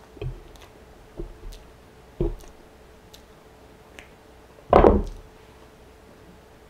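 Close-miked chewing of a mouthful of chili cheese fries: soft wet mouth clicks and smacks, with one much louder mouth sound about five seconds in.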